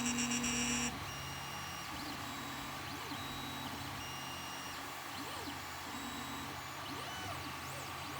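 Ender 3 Pro 3D printer running, with a steady hum under short whines from its stepper motors that change pitch from move to move. A louder pulsing buzz sounds in the first second and cuts off suddenly.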